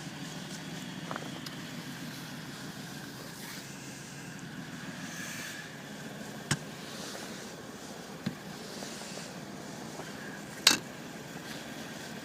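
Car engine idling steadily after a cold start in freezing weather. Three sharp knocks or clicks cut in partway through; the loudest comes near the end.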